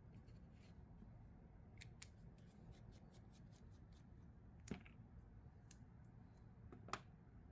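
Faint, light metallic clicks and ticks of a Vosteed Thunderbird folding knife's small parts being handled during disassembly, with a quick run of ticks in the middle and two sharper clicks in the second half.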